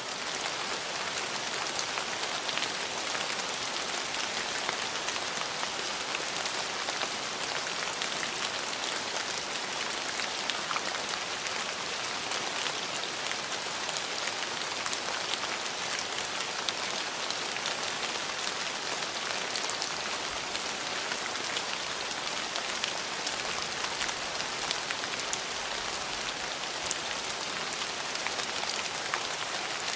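Steady rain falling: a dense, even hiss of rain with scattered sharper drop ticks, unchanging throughout.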